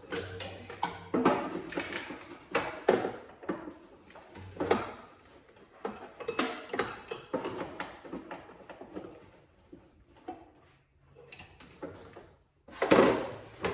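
Irregular clicks, taps and rustling from hands working at a car's old wiring and electrical connectors, with a louder burst near the end.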